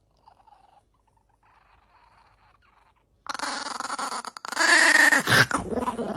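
A pet animal's drawn-out vocal call with a wavering pitch begins about halfway through and lasts about three seconds, as if answering the owner's question. It is louder in its second half.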